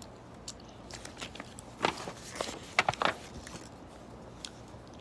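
Paper rustling and a few sharp clicks, about two to three seconds in, as a picture book's page is turned.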